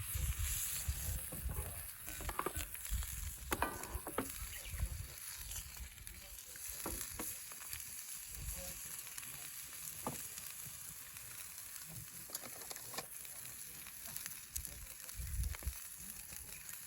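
Steady sizzling hiss with scattered crackles and clicks from a campfire in a Snow Peak fire pit, with low rumbling in the first few seconds and again near the end.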